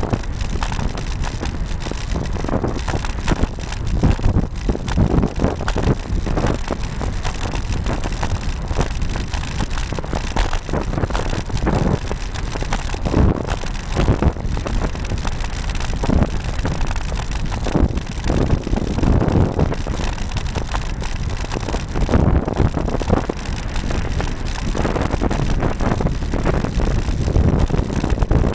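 Wind buffeting the built-in microphone of a camera mounted on a moving Cannondale R900 road bike, over tyre and road noise, with frequent irregular knocks and rattles from the mount and bike jolting over the road surface.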